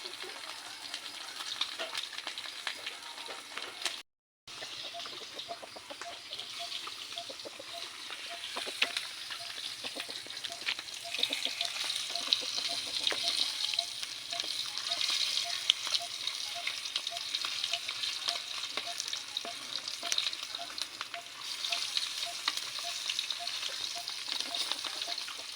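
Food frying in hot oil: a steady sizzle full of small crackling pops, broken by a brief cut to silence about four seconds in.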